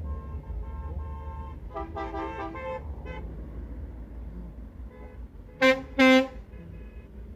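Lorry horns tooting over a steady low engine rumble: fainter horn notes in the first three seconds, then two short, loud toots near the end.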